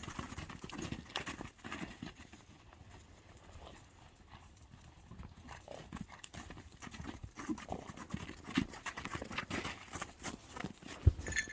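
Horse hoofbeats: irregular thuds and knocks of a horse moving close by, thicker at the start and again over the last few seconds, with one heavy thud shortly before the end.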